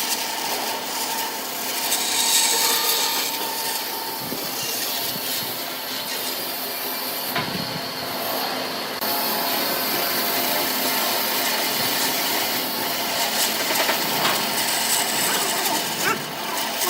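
Wood being cut on a lathe: a turning tool scraping and cutting into the spinning workpiece, a steady rough rasping over machine noise. The sound shifts abruptly about nine seconds in.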